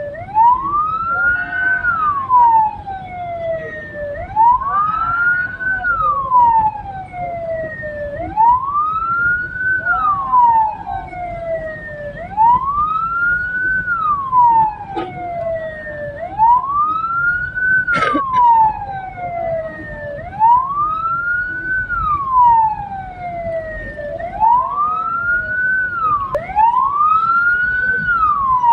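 Hearse siren wailing: a tone that rises quickly and then falls slowly, repeating about every four seconds, over the low rumble of the moving vehicle.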